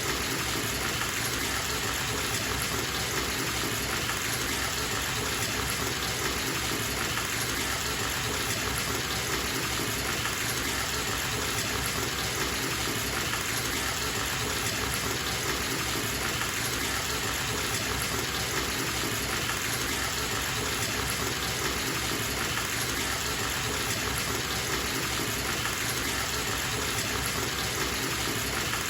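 Bathtub filling from its tap: a steady gush of running water into the tub, even and unbroken.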